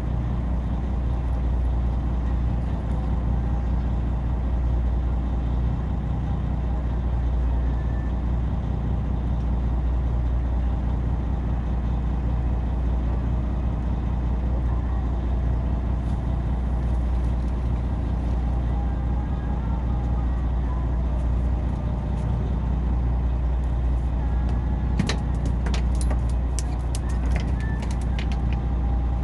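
Fishing boat's engine running at a steady speed, a constant low drone. Near the end comes a short run of sharp clicks.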